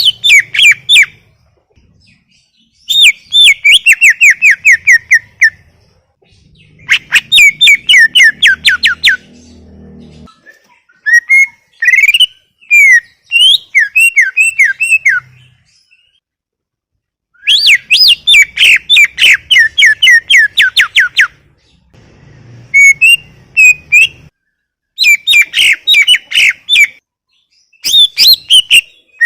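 Greater green leafbird (cucak ijo) singing loud, rapid bursts of high chirps and slurred whistles, each phrase a couple of seconds long with short pauses between, in full continuous song ('gacor').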